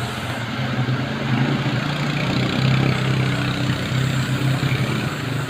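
ATV quad bike engine running at low revs, a steady low hum that swells a little and eases off.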